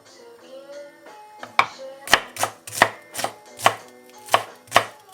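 Kitchen knife chopping on a cutting board: about nine sharp strokes at an uneven two to three a second, starting about one and a half seconds in.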